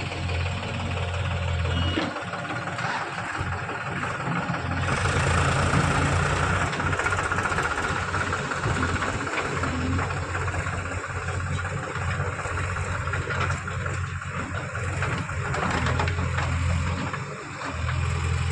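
Diesel engines of a JCB 3DX backhoe loader and tractors running while the loader works. The deep engine hum drops away twice and comes back.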